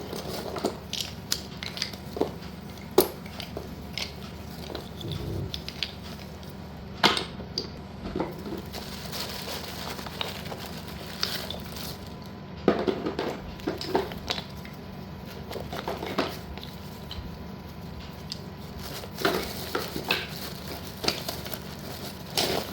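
Hard pieces of slate clinking and knocking together as they are handled, in irregular sharp clicks with a few louder knocks.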